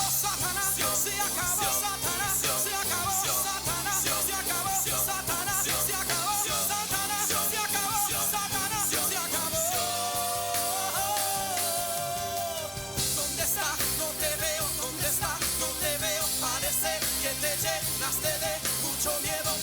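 Upbeat Christian praise music played by a band, with drum kit and bass under a sung or played melody that holds one long wavering note for a couple of seconds about halfway through.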